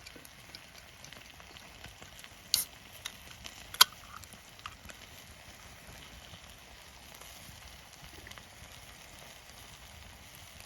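Campfire crackling over a steady sizzling hiss, with two sharp pops a little over a second apart.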